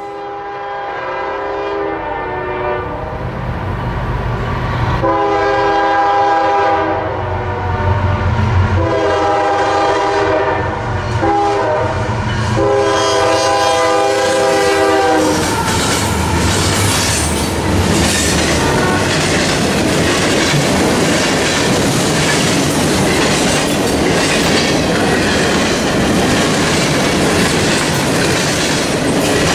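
Locomotive horn sounding chords of several notes in repeated blasts. The last four go long, long, short, long: the grade-crossing signal of an approaching train. From about halfway through, the train passes close by with a loud, steady clatter of wheels on rail.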